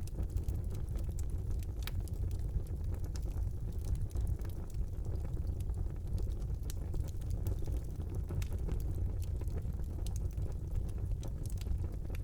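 Fire burning in a brick fireplace: a steady low rumble of flames with frequent small crackles and pops scattered throughout.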